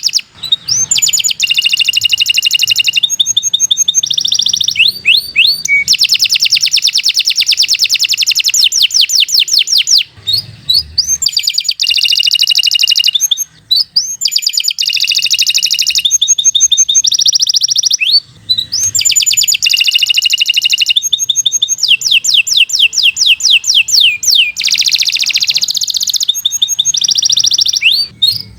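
Domestic canary singing a long, continuous song: fast trills and rolls of repeated high notes, switching from one phrase to the next every second or two, with only a few short breaks.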